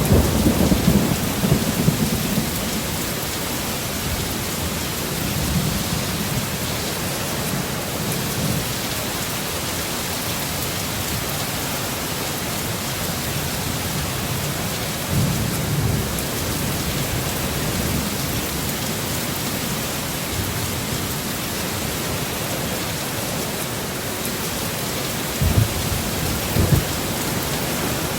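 Heavy rain pouring down in a steady, dense hiss, with low thunder rumbling at the start and again about halfway through. Near the end come a few short, low thumps.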